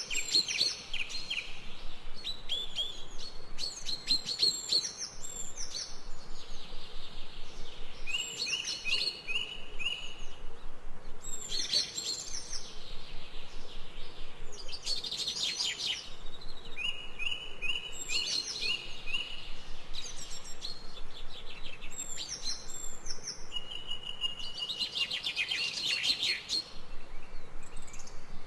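Forest birds singing and chirping: short high song phrases, some of them quick runs of evenly spaced notes, repeating every few seconds over a faint steady hiss.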